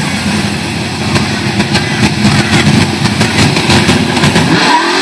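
V8 engine of a Holden Commodore burnout car running with an uneven, pulsing idle as the car rolls slowly forward, then revving up in a rising note near the end as the burnout begins.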